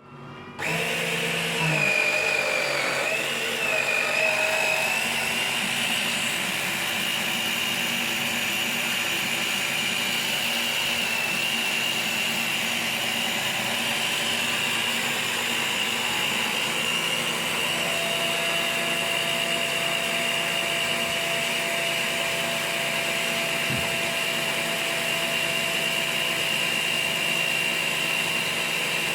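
A motor running steadily with a high-pitched whine. The whine wavers in pitch for the first few seconds, then holds steady.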